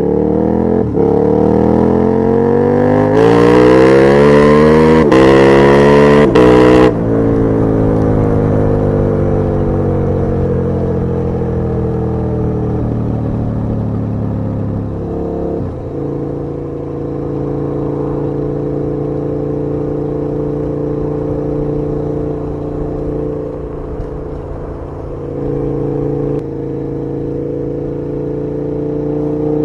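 KTM 1290 Super Duke R V-twin engine pulling hard up through the gears, its pitch climbing in steps with a short dip at each shift, with wind rush at the loudest part in the first seven seconds. The engine then winds down slowly as the bike slows, and settles into a steady low-rev running, rising a little again near the end.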